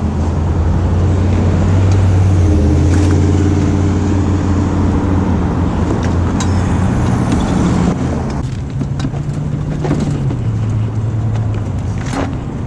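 A motor vehicle's engine running close by. It is loudest a few seconds in, and its pitch shifts around eight and ten seconds in. A few light clicks and knocks sound over it.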